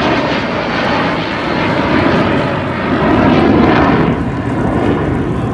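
Jet aircraft flying past at an airshow: a loud, steady rush of jet engine noise that swells to its loudest about three seconds in.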